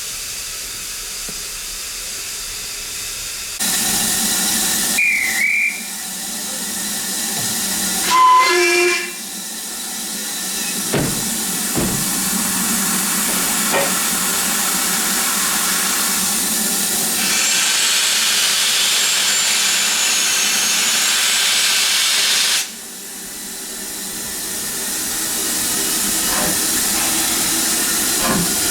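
Steam locomotive hissing steam steadily, with a short whistle blast about eight seconds in. From about seventeen seconds a louder, higher hiss of escaping steam runs for some five seconds, then cuts off suddenly.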